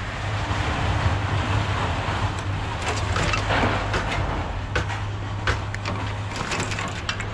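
A vehicle engine idling steadily, under scattered light clicks and rustles of wire being pulled off scrap metal by hand.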